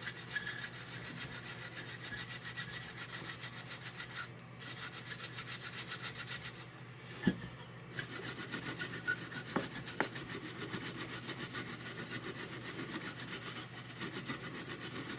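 A shine brush buffing the shell of a Marx 666 toy locomotive by hand: rapid, rhythmic back-and-forth bristle strokes, with a couple of brief pauses and a single click near the middle.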